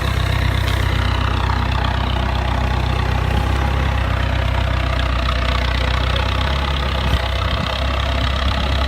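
Engine of a forklift-type loading machine running steadily at idle, with a slight shift in its low hum about two-thirds of the way through.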